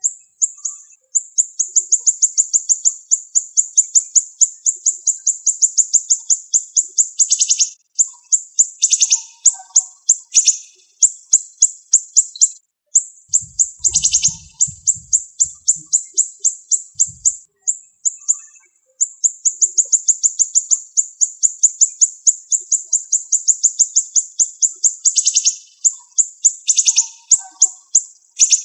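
Siri-siri songbird singing a rapid, tightly packed run of sharp high notes, about ten a second, in long runs broken by short pauses.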